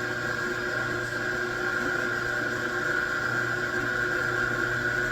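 Machine tool running steadily, a constant high whine over a low hum and hiss.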